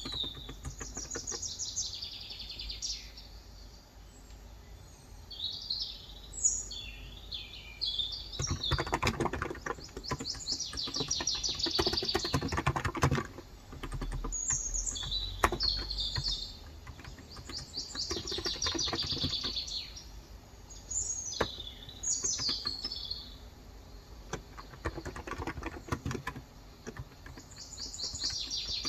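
Typing on a Cox Endeavor electro-capacitive (Topre-style) 35 g keyboard, coming in bursts of quick key clicks a few seconds long. Small songbirds chirp in short repeated phrases throughout.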